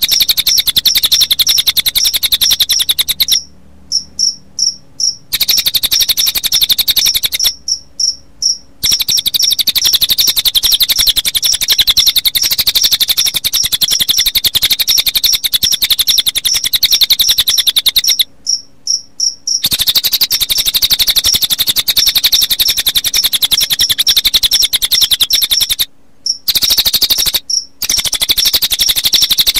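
Cililin bird song mixed with chirping crickets: a dense, very fast, high-pitched pulsing trill. It drops out for a second or so about five times, leaving only a few separate high chirps.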